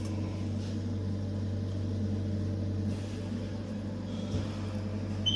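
Steady low machine hum, with a short high beep near the end.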